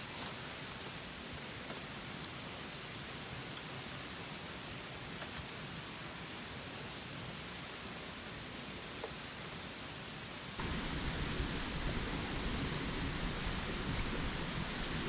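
Open wood fire burning on the bare ground, a steady hiss with scattered small crackles. About ten seconds in, the sound changes suddenly to a duller, deeper and slightly louder rush.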